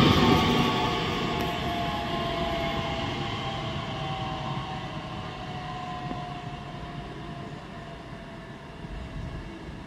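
Regional multiple-unit train pulling out and moving away down the track: running and wheel noise with a whine that sinks slowly in pitch, fading steadily as it recedes.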